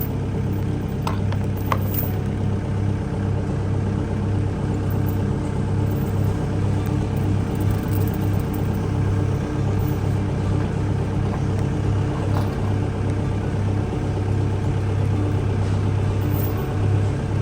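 Farm tractor engine idling with a steady low drone, and a couple of sharp clicks about a second and two seconds in while a tow chain is being hooked on.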